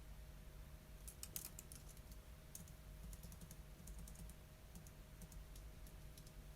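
Quiet typing on a computer keyboard: irregular runs of keystrokes, densest a little after the first second and again through the middle, over a faint steady hum.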